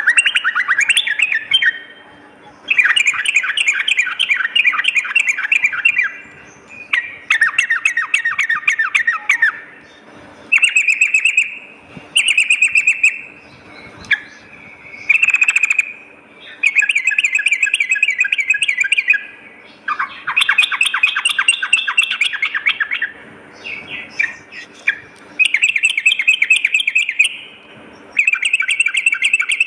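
Yellow-vented bulbul (trucukan) singing: repeated bursts of fast, rattling chattering notes, each a second or so to three seconds long, separated by short pauses.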